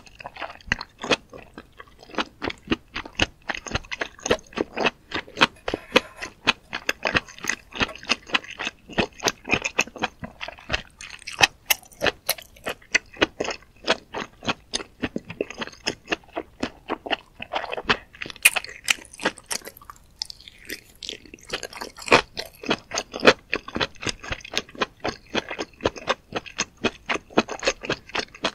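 Close-miked chewing of red-sauce-coated mushrooms: a dense run of quick mouth clicks, several a second.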